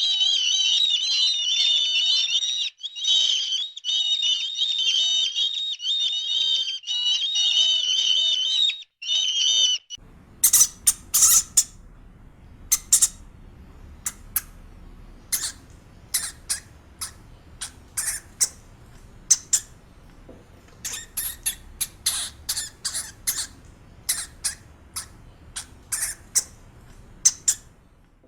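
Birds calling: first a dense, continuous high-pitched chatter. After an abrupt change about ten seconds in, a string of separate short, sharp chirps follows, irregularly spaced.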